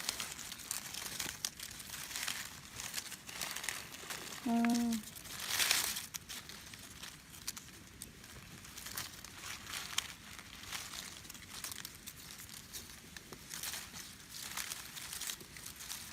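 Dry leaf litter crackling and rustling in irregular bursts as someone moves through it and searches the ground for mushrooms, with a louder rustle about five and a half seconds in. A brief hum-like voice sounds just before it.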